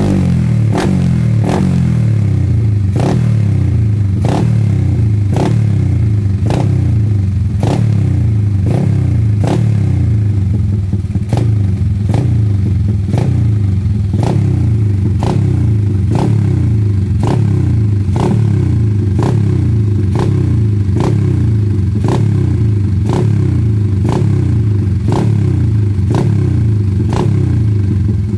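Drag bike engine running through an open exhaust pipe, a loud low rumble with a sharp crack repeating a little more than once a second.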